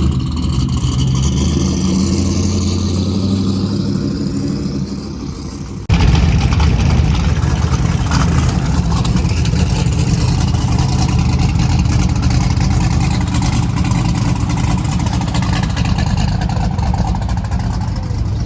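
Car engines running steadily, with no revving up. About six seconds in the sound cuts abruptly to a louder, rougher-running engine.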